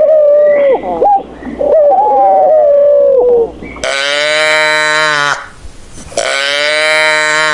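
Animal calls: a run of gliding, wavering cries, then two long, steady calls about a second and a half each, with a short pause between them.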